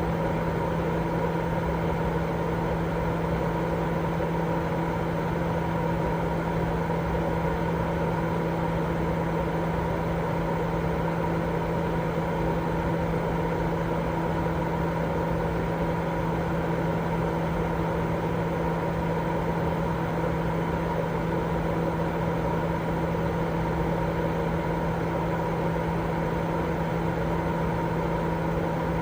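Continuous baby-sleep white noise: an even, unbroken rushing hiss with a steady low hum running through it, never changing in level.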